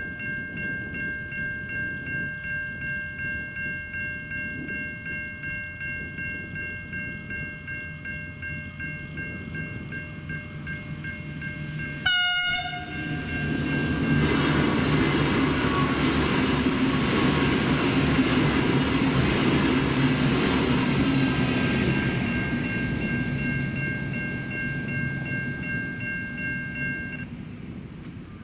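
Level crossing electronic bells ringing with a steady pulse. About twelve seconds in a train gives a short horn blast, then a V/Line VLocity diesel multiple unit passes loudly over the crossing, its engines and wheels fading away. The bells stop near the end.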